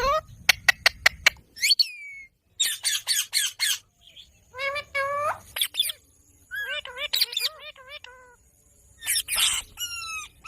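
Ringneck parakeet calling in a series of short, pitched squawks and chirps. There is a quick run of about six sharp clicking notes near the start, then bursts of calls that sweep up and down in pitch, with short pauses between them.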